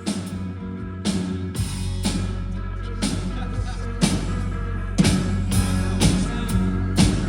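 Live pop-rock band playing an instrumental passage: drums keep a steady beat with guitar and keyboards, and a deep bass line comes in about a second and a half in.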